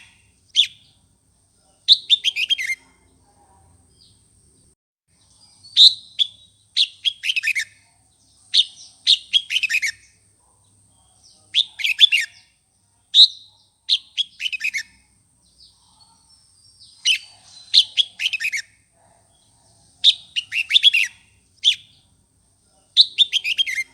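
Red-whiskered bulbul singing: short, rapid phrases of bright, fluty notes repeated every second or two, the loud fighting song used to provoke rival bulbuls. A faint, steady high-pitched tone runs underneath.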